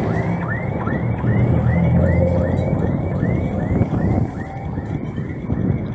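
City street traffic: a vehicle engine running loud and close, easing off about four seconds in, with a repeated short rising squeak about two to three times a second over it.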